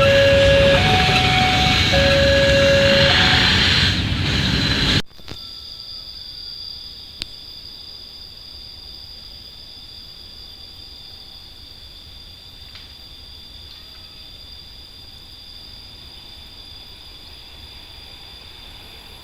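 A train passing close by with heavy rumble, over a two-note warning tone that alternates between a lower and a higher pitch. About five seconds in, it cuts off abruptly to a quiet outdoor background with a faint steady high whine.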